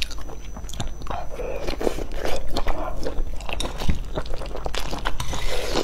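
A person chewing and biting into spicy fried instant noodles and a fried piece of food, picked up close by a clip-on microphone: wet chewing with many short clicks and smacks throughout.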